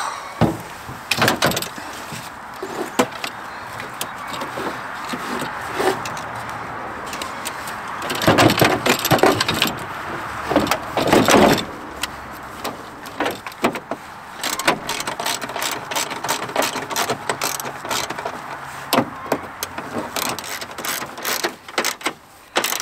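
Hand tools at work on a truck battery installation: irregular metal clicks, clanks and knocks as the battery is set in and the hold-down bracket and terminals are tightened. The sounds come in a dense cluster about eight to twelve seconds in, over a steady hiss.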